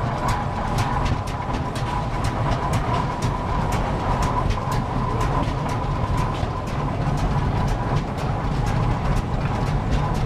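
Vintage tractor engine running at a slow, even beat, its exhaust giving sharp pops about three times a second over a low rumble, with a steady high hum alongside.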